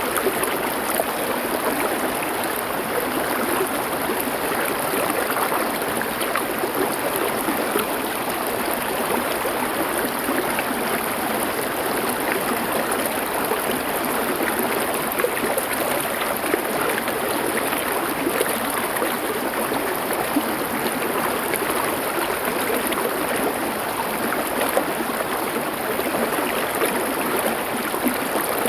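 Stream water flowing over stones, a steady rushing with fine splashing and gurgling throughout.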